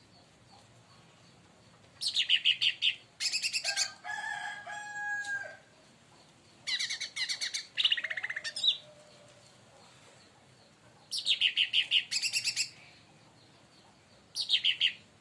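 Leafbird (cucak ranting, or cica daun) singing in short, rapid, high trilled phrases, repeated every few seconds. About four seconds in comes a lower, drawn-out whistled phrase.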